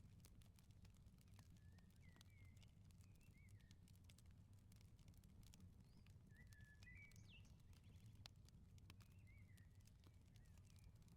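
Faint crackling of a wood fire, many small sharp pops over a low steady rumble. Small birds chirp in short runs of a few notes, three times.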